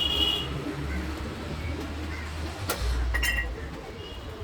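Short bird chirps over a low, steady rumble, with one sharp click a little before the second chirp.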